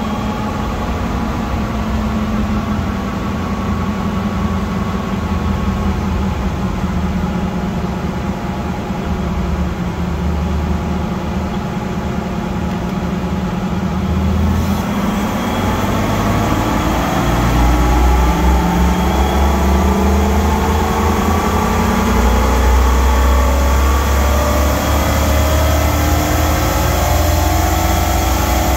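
2000 Jeep Wrangler TJ's 4.0-litre straight-six, breathing through its stock airbox on a chassis dyno, running steadily at part throttle; about halfway through it goes to full throttle and its pitch climbs steadily and gets louder as the dyno pull begins.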